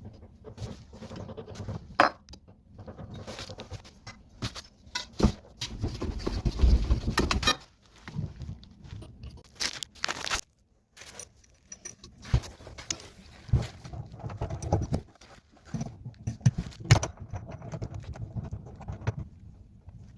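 Irregular knocks, clinks and rustling, with a few sharp knocks standing out and a longer rumbling stretch about six to seven seconds in.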